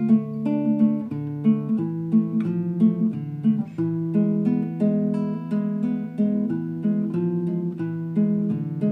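Acoustic guitar music: a picked melody over a repeating bass line, the notes clean and ringing.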